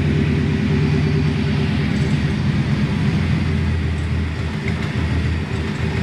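Truck engine running with a steady low rumble, dipping slightly in level about four and a half seconds in. The engine runs poorly, surging and then dropping in revs until it sounds like it's knocking.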